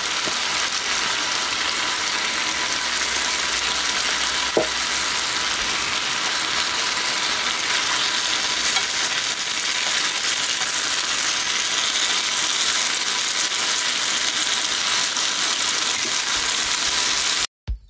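Chicken breasts sizzling in a bubbling tomato sauce in a frying pan, a steady sizzle with a single click about four and a half seconds in. The sizzle cuts off suddenly just before the end.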